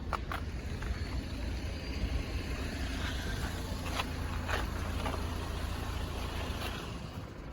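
Train passing over a level crossing: a steady low rumble with sharp wheel clanks a few seconds apart.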